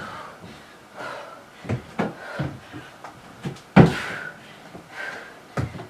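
Feet landing on and stepping off a plyo box: a run of irregular thuds, the loudest about four seconds in, with hard breathing between them.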